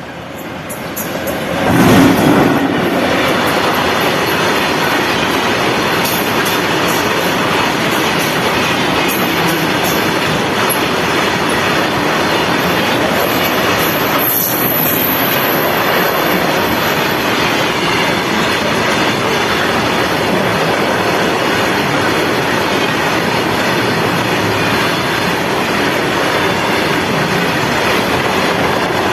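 Freight train passing close by at high speed, nearly 100 km/h. The sound swells to its loudest about two seconds in as the locomotive goes by, then holds as a long, steady rush of wagons rolling past, with the clack of wheels over the rails.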